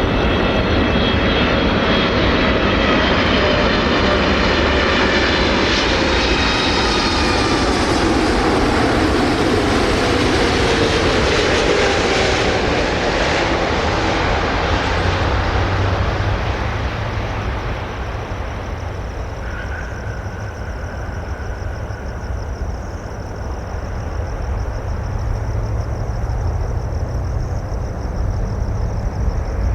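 Boeing 747-8F four-engine jet freighter passing low overhead on landing approach: a loud jet roar with several whines that fall in pitch as it goes by, then fading away over a steady low rumble.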